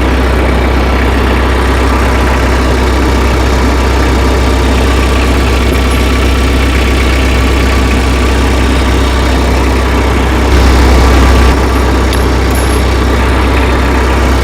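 Tractor engine idling steadily, with a brief rise in level about ten and a half seconds in.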